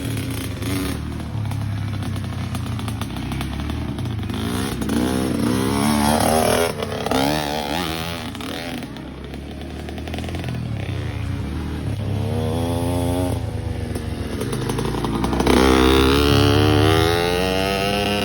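Dirt bike engine revving, its pitch climbing and falling several times, with the loudest rev near the end.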